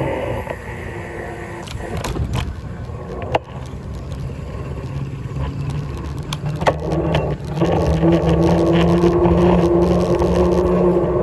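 Vehicle engine and road noise during a ride: a low rumble with a few sharp clicks and knocks, then a steady engine drone that comes in louder about two-thirds of the way through.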